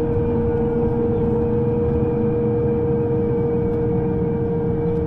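Electric train running at a steady speed, a constant motor whine over a low rumble.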